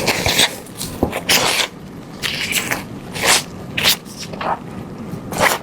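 Close-up biting and chewing of a crunchy spring roll, a series of irregular crisp crunches.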